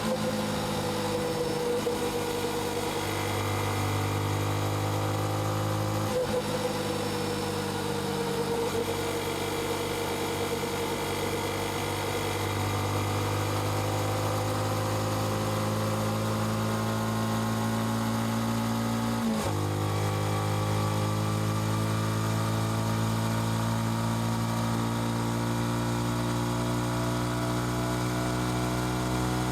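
Yamaha XSR155's single-cylinder engine and exhaust running steadily, its pitch drifting gently down and up. There are two brief breaks in the note, about six seconds in and about nineteen seconds in.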